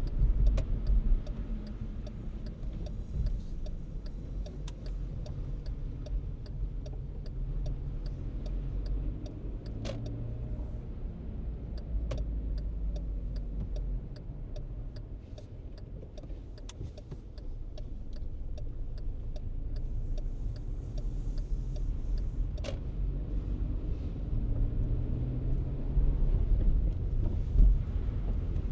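Car driving on snowy city streets: steady low road and engine rumble, with a run of light, evenly spaced clicks through much of it and a few louder bumps near the end.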